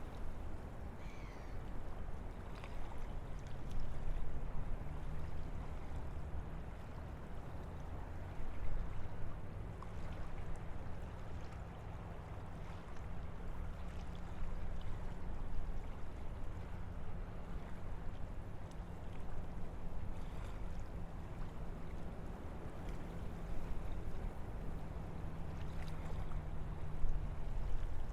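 Wind through a forest: a steady low rushing that swells and eases, with a faint low steady hum underneath.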